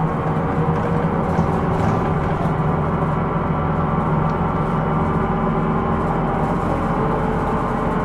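Hino Rainbow II non-step bus running at a steady pace, heard from inside the cabin: engine and drivetrain drone with several steady humming tones over a low rumble.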